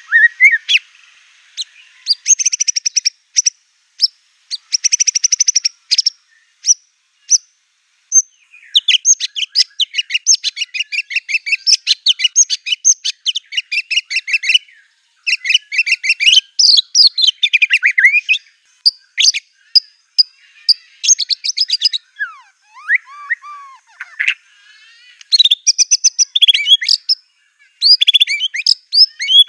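White-rumped shama (murai batu) singing hard in bouts of rapid-fire trills and chatters, its song packed with phrases mimicked from canaries and other small birds. A few slower, lower sliding whistles come past the middle.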